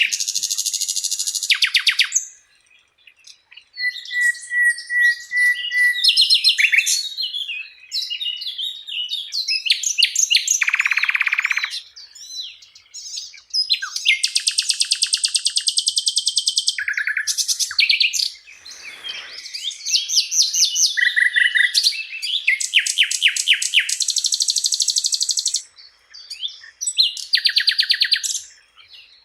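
A sikatan londo flycatcher singing a long, varied song: fast rattling trills, buzzy phrases and a held whistled note, each phrase a second or two long with short pauses between.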